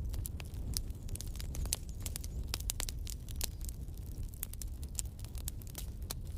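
Wood fire of burning logs crackling: irregular sharp pops and snaps, several a second, over a steady low rumble of the flames.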